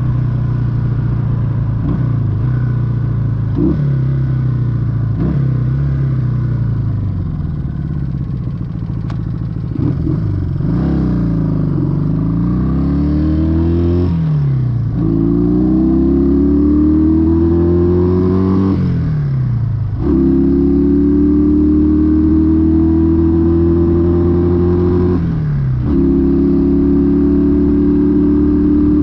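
1968 Honda Dream CD250 motorcycle, its air-cooled 250 cc parallel twin pulling through the gears. The exhaust note climbs in pitch and falls away at each gear change: several quick shifts at first, then longer climbs with a few drops in pitch later on.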